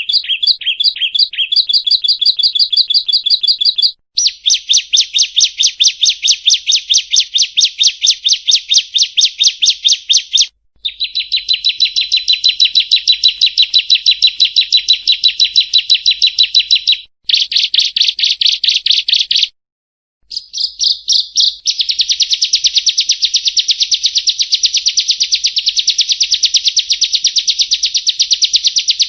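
Prinia (perenjak) song: rapid, evenly repeated high notes, many a second, in long trills lasting several seconds, broken by brief pauses.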